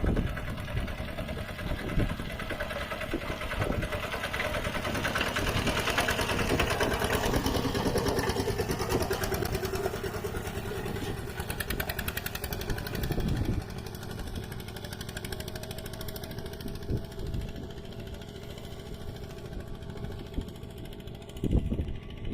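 A Kubota mini tractor's single-cylinder diesel engine running steadily under load while plowing in mud, with a fast, even chugging pulse and a few short knocks, the loudest near the end.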